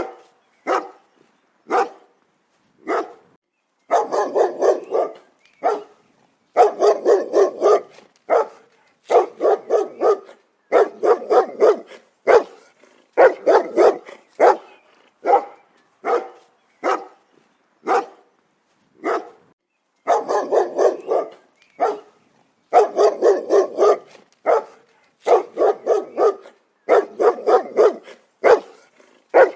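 A dog barking repeatedly, in single barks and quick runs of several barks, with short pauses between.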